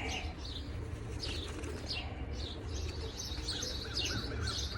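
Birds chirping: a steady run of quick, high, falling chirps, joined in the second half by a string of lower, softer notes, over a low steady hum.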